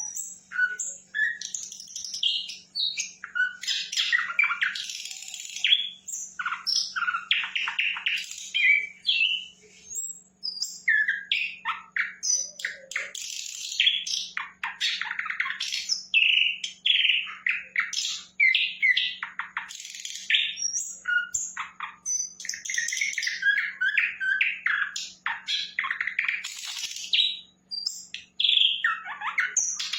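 Sikatan londo flycatcher singing without pause: a varied, rapid stream of high chirps, whistles and trills, with short breaks. A faint steady low hum runs underneath.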